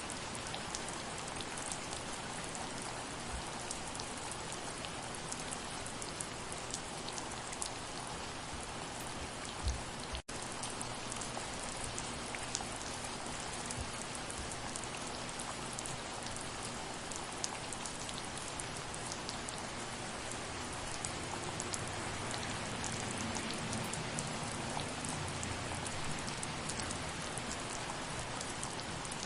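Steady soft rain falling, an even hiss with many individual drops striking close by. A brief thump and a split-second gap in the sound come about ten seconds in.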